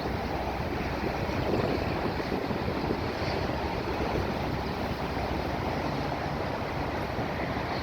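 Steady rushing noise with no distinct events, most of it low and mid in pitch.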